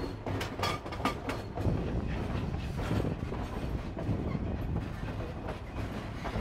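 Narrow-gauge railroad passenger car rolling along the track, heard from aboard: a steady rumble with a quick run of wheel clacks in the first second and a half.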